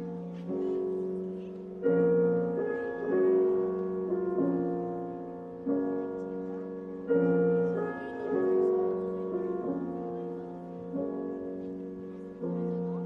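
Slow piano music: a series of sustained chords, each struck and left to fade.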